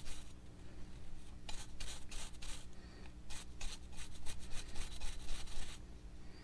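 Quick, repeated rubbing strokes, a rapid series of them starting about one and a half seconds in and stopping near the end, over a steady low hum.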